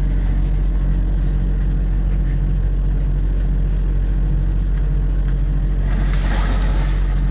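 A boat's motor running with a steady low hum. A brief rush of noise comes about six seconds in.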